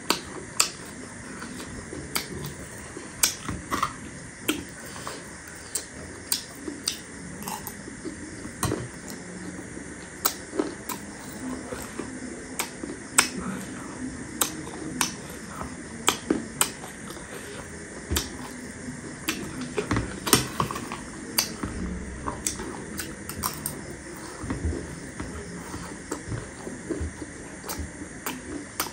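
Close-miked chewing of crunchy chatpate, a spiced puffed-rice snack: sharp, crisp crunches coming irregularly, a few each second.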